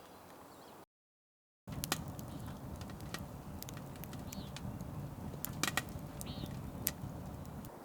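Wood fire crackling, a steady low rush scattered with sharp pops and snaps, with a faint bird chirp or two. It starts abruptly after a moment of dead silence about a second in.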